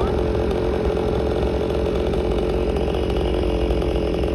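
Two-stroke chainsaw running steadily at one engine speed.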